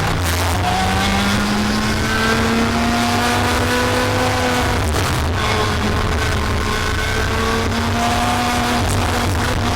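Racing kart engine at full throttle, its note climbing slowly for several seconds, falling about five seconds in, then climbing again and falling near the end, over a heavy low rumble.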